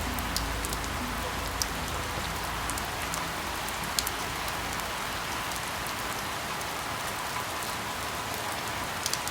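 Steady rain hissing, with scattered sharp drop ticks.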